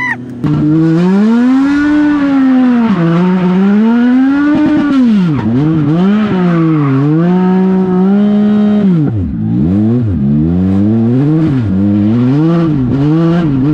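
Legend car's Yamaha 1250 cc four-cylinder engine at racing speed, its pitch climbing and falling over and over as the throttle is lifted and reapplied through the corners. The lowest dip comes about ten seconds in.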